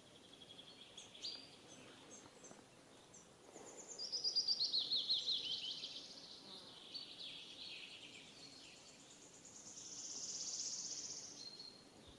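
Birds chirping outdoors, with a quick run of high, falling notes about four seconds in and a high buzzing swell near the end.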